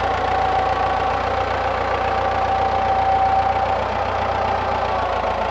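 Engine idling steadily, with a steady whine over the running.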